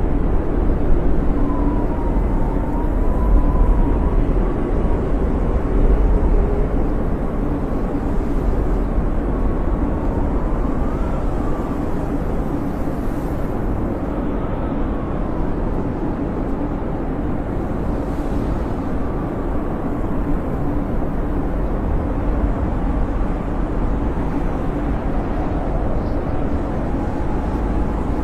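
Snowstorm wind howling steadily, with a faint whistle that wavers up and down in pitch.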